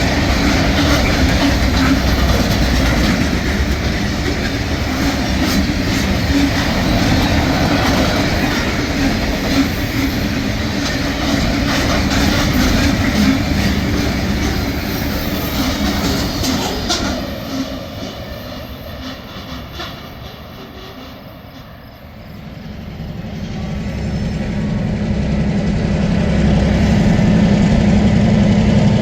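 A train rolling past with wheels clicking over rail joints; it fades away about two-thirds of the way through. Then a locomotive's engine hum grows louder as another train approaches.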